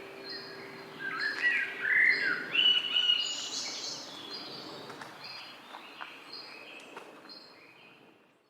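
Songbirds chirping and singing: short high notes repeated about once a second, with a louder burst of gliding song about one to three seconds in, the whole fading out at the end.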